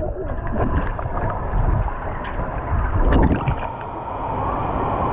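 Wave-pool water churning and sloshing in a steady noisy din, with a louder surge of water about three seconds in.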